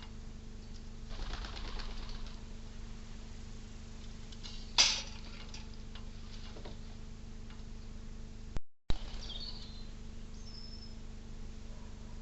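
Birds at a feeder: wings flapping, with one sharp flutter about five seconds in and a few short high chirps later, over a steady low hum.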